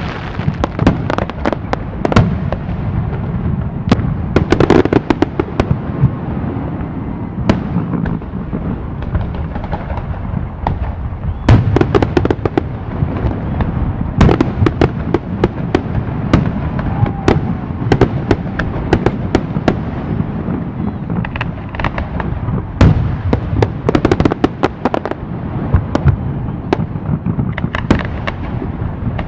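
Aerial fireworks display: a rapid, continuous barrage of sharp bangs and crackling shell bursts over a steady low rumble, with heavier clusters of reports several times.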